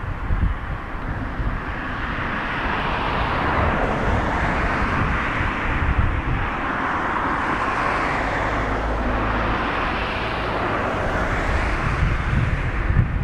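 Jet engine noise from a Boeing 777-200 during pushback, a steady whooshing hiss that swells and fades every few seconds, with strong wind buffeting the microphone.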